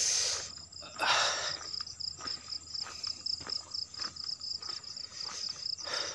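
Crickets chirping in a steady, fast-pulsing trill, with footsteps and rustling through undergrowth; the loudest are two short swishes near the start and about a second in.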